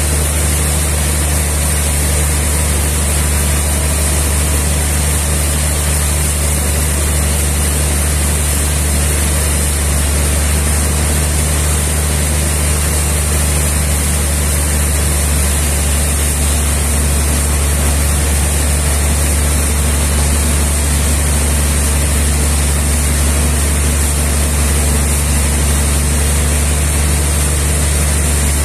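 Sawmill engine running steadily: a loud, constant low hum with a steady hiss above it, no change in speed.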